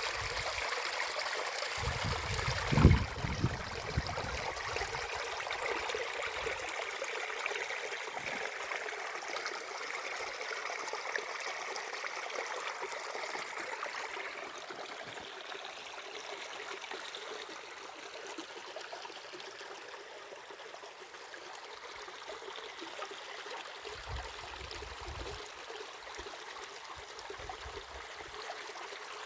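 Stream of water running steadily, an even rushing sound, with a sharp low thump about three seconds in and brief low rumbles near the end.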